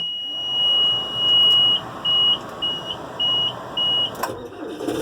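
John Deere 5425 tractor's key-on warning beeper sounding as the ignition is switched on before starting: one long high tone of about two seconds, then four short beeps. A click comes at the start and clicks come near the end as the diesel is cranked.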